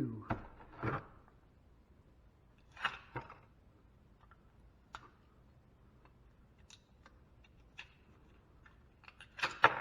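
Scattered clicks and snips of hand tools working on metal parts as a device is taken apart for scrap, a few sharp sounds spaced irregularly with quiet between.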